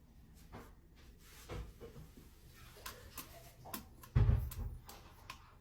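Scattered small knocks and clicks in a quiet room, with a louder low thump about four seconds in.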